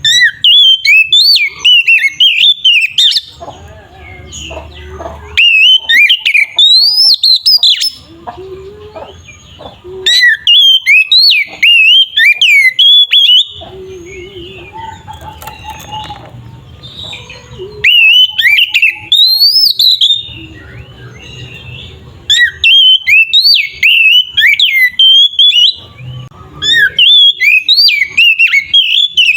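Oriental magpie-robin singing a loud, varied song of rapid whistled and chirped notes. The song comes in six bursts of two to four seconds with short pauses between them.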